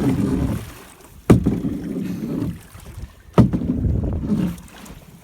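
A small boat being rowed with a single oar, stroke after stroke. Each stroke starts with a sharp knock, followed by about a second of water swishing, repeating about every two seconds.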